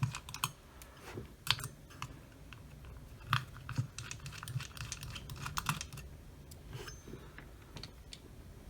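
Irregular light clicks and taps of small tools and parts as the camera's circuit board is unscrewed and worked loose from its housing.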